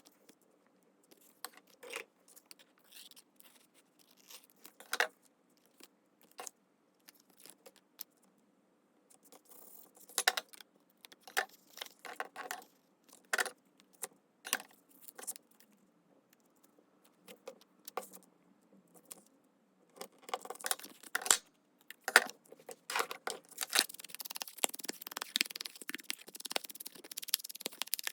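Hand-crafting sounds from paper and small craft materials being handled: scattered light clicks and taps with paper rustling, becoming busier and louder over the last several seconds.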